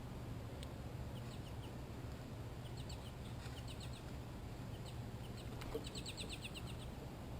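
Bird chirping: short high chirps scattered throughout, with a quick run of about eight of them about six seconds in, over a steady low hum.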